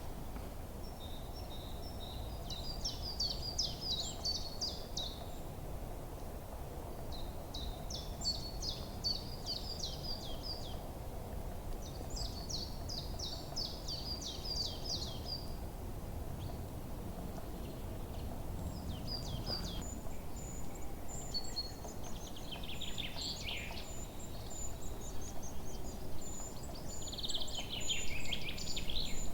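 Wild songbirds singing: a rapid trilled phrase repeats every few seconds, then thin high notes and a couple of downward-sweeping phrases near the end, over a steady low background rush.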